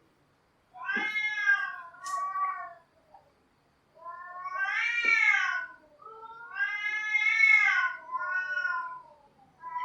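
Domestic cats yowling: three long, drawn-out calls with short pauses between, each rising and falling in pitch.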